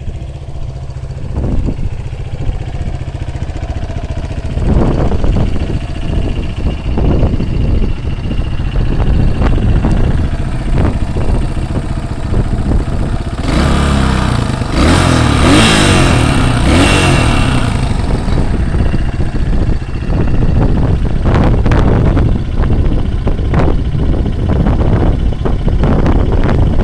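Honda CRF230F's air-cooled single-cylinder four-stroke engine running, revved up and down for a few seconds about halfway through, with heavy wind buffeting on the microphone.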